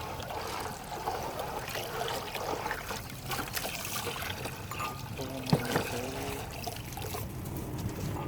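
Salt water trickling steadily in the holding tray of live bait worms, with a few small knocks and splashes from handling.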